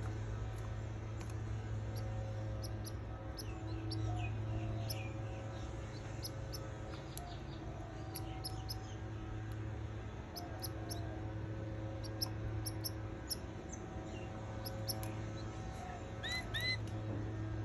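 Canary chicks in the nest giving short, high squeaky peeps scattered throughout, with a couple of clearer curved chirps near the end, over a steady low hum.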